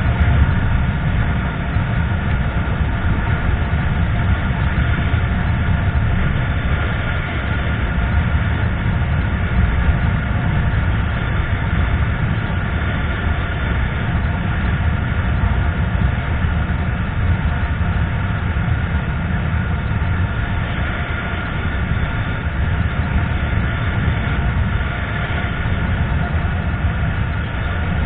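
Yamaha Fazer FZ25's single-cylinder engine running steadily at road speed under a heavy rush of riding wind, with a steady low rumble and a faint steady whine above it.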